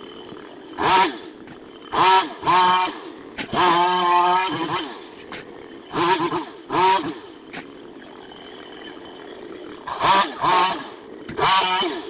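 Chainsaw idling and being revved in short throttle bursts that rise and fall in pitch, about nine times. One burst is held for about a second around four seconds in.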